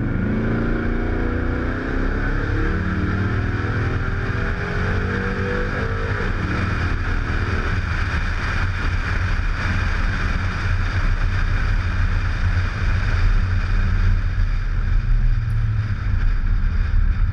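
Supercharged GM V8 in a 1948 Buick Super accelerating hard, its pitch climbing for about seven seconds. Then a loud, steady rush of wind noise on the microphone takes over as the car runs at speed.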